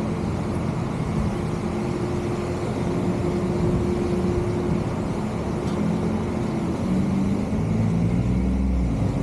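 Car running on the move: steady engine hum and road noise, the pitch shifting a little near the end.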